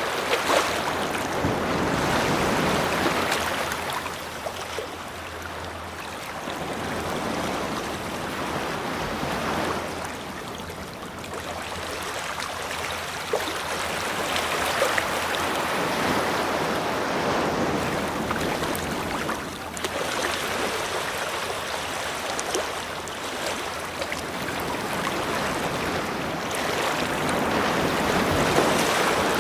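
Sea waves washing onto a shore, the surf swelling and easing every few seconds.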